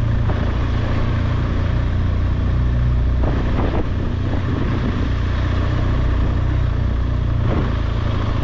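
BMW R1200GSA motorcycle's flat-twin boxer engine running at a steady cruise, with wind and road noise.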